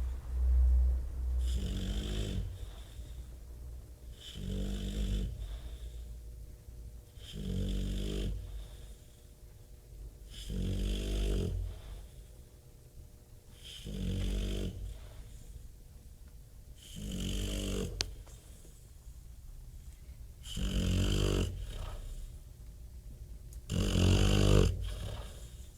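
Bulldog snoring heavily in sleep: a loud rattling snore on each breath, about every three seconds, with quieter breathing in between.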